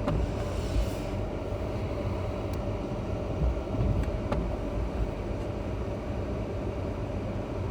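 Road noise inside a moving car's cabin: a steady low rumble from the engine and tyres, with a faint steady hum and a few light clicks.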